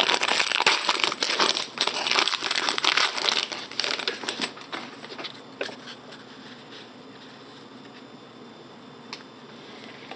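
Trading-card pack wrapper crinkling as it is opened and handled. It is dense for the first four seconds or so, then dies down to a few scattered soft clicks.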